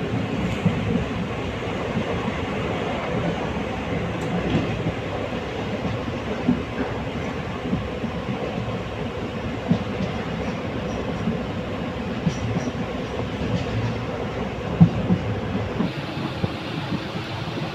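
Passenger train running at speed, heard from inside the coach: a steady rumble of wheels on the rails, with scattered clicks and knocks from the track.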